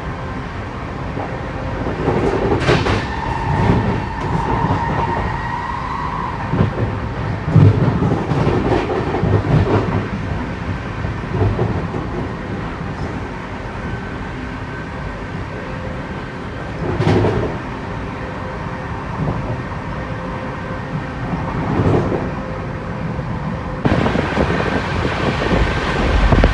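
Running noise of a moving passenger train, heard from inside the coach: a steady rumble of wheels on the rails with occasional knocks. The noise gets louder near the end.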